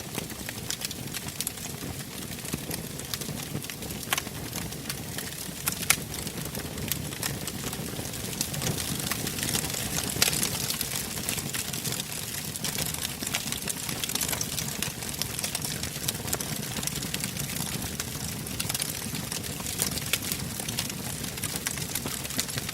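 Wood fire burning in a fireplace: a steady low rumble of flames with frequent sharp crackles and pops, a louder pop about six seconds in.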